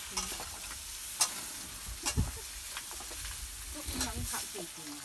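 Food sizzling as it fries in a pan over an open wood fire, a steady hiss with a few sharp clicks.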